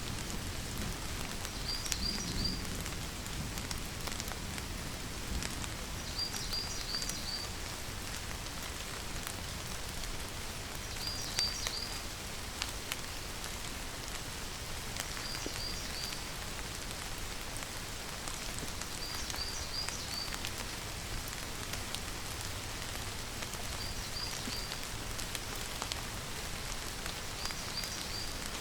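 Steady rainfall, an even hiss of rain falling on surfaces. A faint high chirp of three or four quick notes repeats about every four seconds over the rain.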